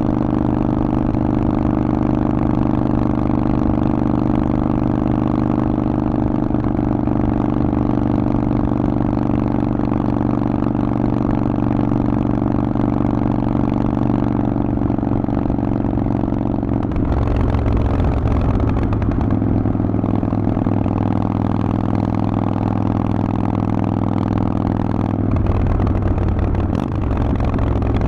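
Harley-Davidson Forty-Eight's air-cooled 1200 cc V-twin running through a Vance & Hines exhaust while riding. It holds a steady engine speed, changes pitch and tone about 17 seconds in, and changes again about 25 seconds in.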